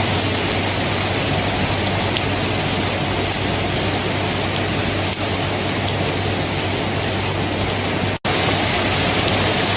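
Steady, even rain noise, as of a downpour on a surface, with a low steady rumble underneath. The sound cuts out for an instant about eight seconds in, then resumes unchanged.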